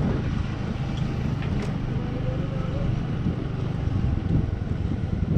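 Scooter running while being ridden, its steady engine note under heavy wind buffeting on the microphone.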